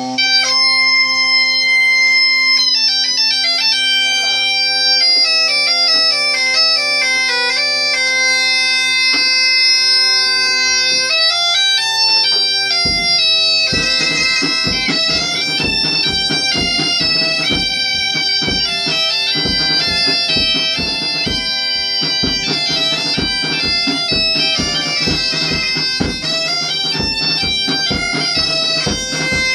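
Gaita (bagpipe) playing a folk tune over its steady drone; about 13 seconds in a drum joins with a steady beat.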